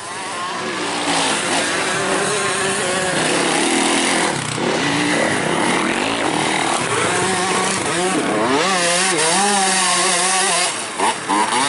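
Several motocross bikes running together, their engines revving up and down over one another with buzzy overlapping tones.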